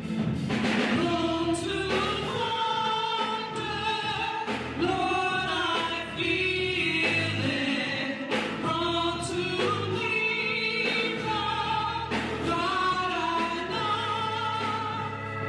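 Gospel hymn singing, long held and sliding sung notes over a steady instrumental accompaniment.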